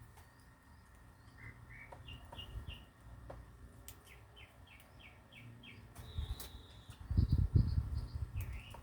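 Small birds chirping in short quick series of high notes, with one brief held whistle. About seven seconds in, a burst of low dull thuds and rumble is the loudest sound.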